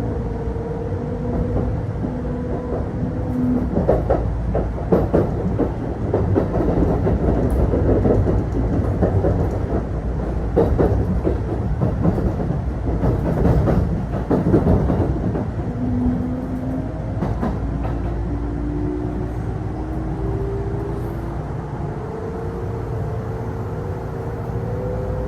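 Kintetsu Osaka Line local electric train heard from inside the car. Through the middle the wheels clatter over rail joints and points. Over the last several seconds the traction motors' whine climbs in steps as the train accelerates.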